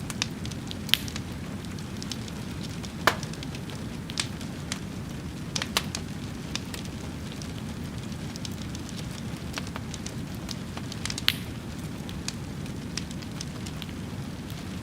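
Wood fire crackling, with a steady low rumble and sharp pops at irregular intervals; the loudest pop comes about three seconds in.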